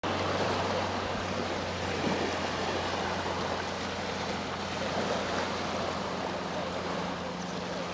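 Sea waves washing on the shore, a steady rushing wash, over a steady low hum.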